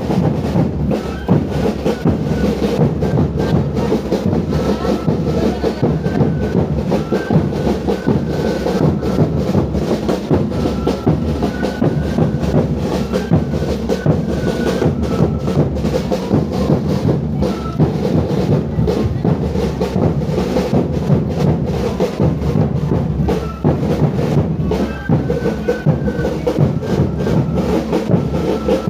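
Live percussion music: drums beating steadily, with a thin high melody of short stepped notes over them.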